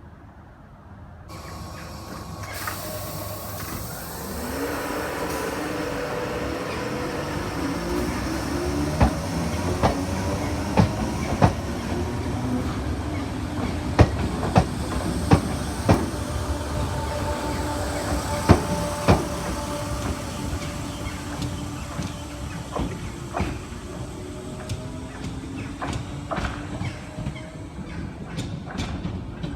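A multiple-unit passenger train comes in and runs by. Its motors give steady tones that rise in pitch a few seconds in, and its wheels make a run of sharp clicks crossing the track through the middle before the sound eases off near the end.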